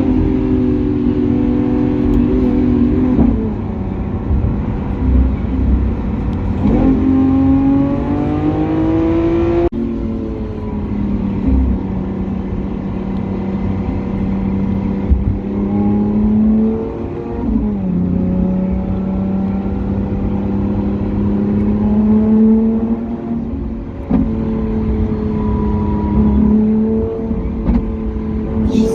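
Lamborghini Aventador SVJ's V12 with a Balboni exhaust, running at steady revs under way. The note holds steady for long stretches, drops sharply a couple of times as it shifts or lifts off, and climbs again.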